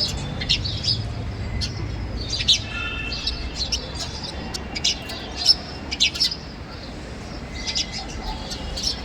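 Small birds chirping: short, high chirps in quick clusters, some sharper and louder ones around two and a half and five and a half seconds in, over a steady low rumble.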